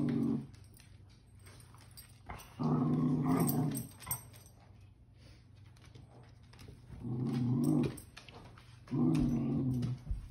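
Cavalier King Charles spaniels growling in play: three drawn-out growls of about a second each, with quieter pauses between, and the tail of another at the start.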